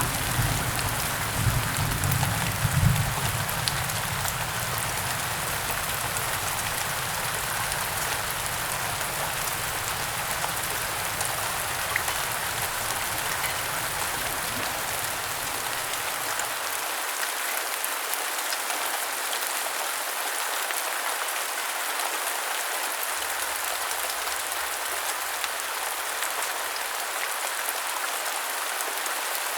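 Heavy rain falling steadily, a dense even hiss. A low rumble of thunder dies away over the first several seconds.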